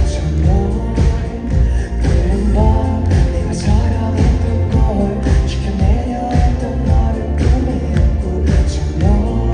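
A live band playing a pop-rock song, with a sung melody over drums, bass and guitars.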